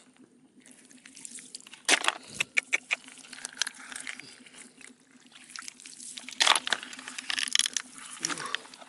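Water splashing and sloshing, with two louder splashes, about two seconds in and about six and a half seconds in, over a faint steady low hum.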